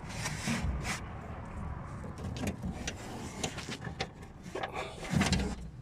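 Irregular clicks, knocks and short scrapes from handling the parts of a car's window regulator, loudest about five seconds in.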